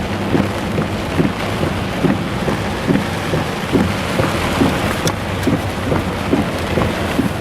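Heavy rain pouring down on and around a vehicle driving through flooded streets, a steady loud hiss, with a low engine hum and a regular low thump about two to three times a second.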